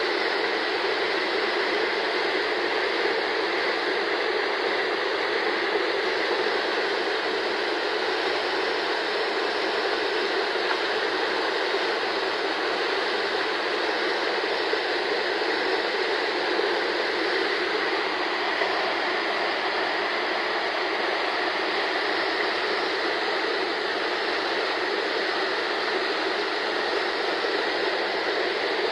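Steady, unbroken rush of flowing floodwater in a swollen stream.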